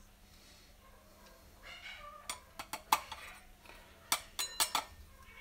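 Sharp metallic taps and clinks in quick clusters, starting about two seconds in after a soft rustle: a container of freshly ground coffee being knocked against an espresso portafilter to shake the grounds out.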